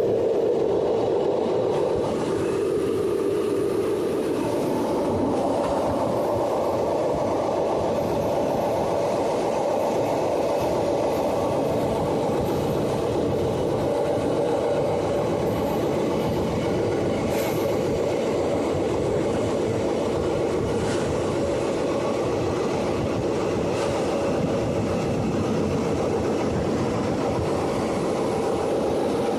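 Passenger train running along the line: a steady rumble from wheels on rails, with a few faint clicks later on.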